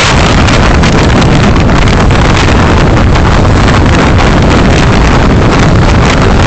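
Loud, steady road and wind noise from a car on the move, picked up by a dashcam microphone: an even rumble and hiss with no breaks.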